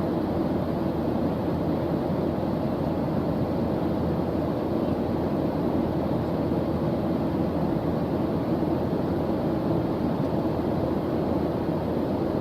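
Steady white-noise background track: an even, unbroken rushing sound, deep rather than hissy, that does not change.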